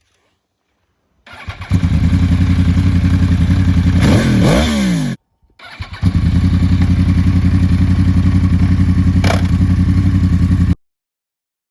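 Four-cylinder superbike with an Akrapovic exhaust starting up about a second and a half in and idling with an even pulse. It takes one quick blip of the throttle about four seconds in, then the sound cuts off suddenly. It is started again around six seconds in and idles steadily until it cuts off suddenly near the end.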